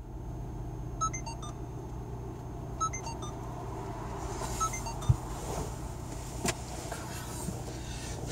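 Car engine idling while stationary, heard from inside the cabin as a steady low hum. A few quick groups of short high electronic beeps come about one and three seconds in, and there are single clicks near the middle.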